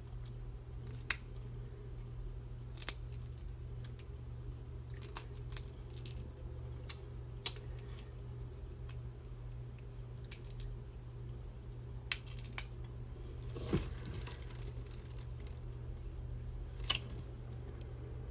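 Scattered sharp cracks and clicks, about a dozen at uneven intervals, as seafood shells are cracked and picked apart by hand. A steady low hum runs underneath.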